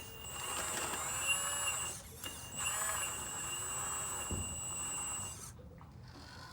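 Hydraulic RC model excavator's electric pump and motors whining in spells, the pitch dipping and rising as the load changes. It drops away about five and a half seconds in.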